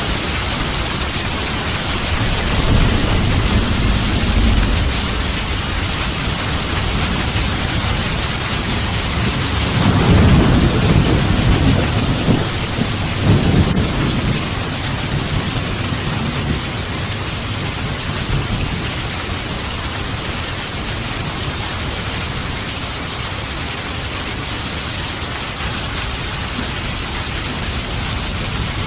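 Steady heavy rain hissing, with rolls of thunder rumbling underneath: a lighter roll a few seconds in and a louder, longer one from about ten seconds in.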